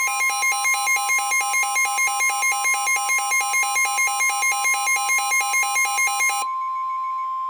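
Weather radio warning alarm for a severe thunderstorm warning: a steady high tone with a rapid pulsing beep over it, about four pulses a second. The beeping stops about six seconds in, leaving the steady tone alone.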